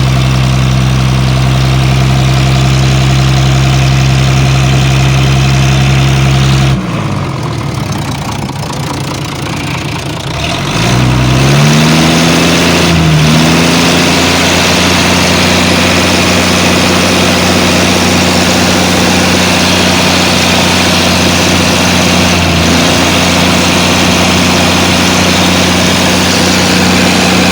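Fishing boat engine running steadily. About seven seconds in it winds down and drops in pitch. Near eleven seconds it picks up again, rising in pitch, and settles back into a steady run.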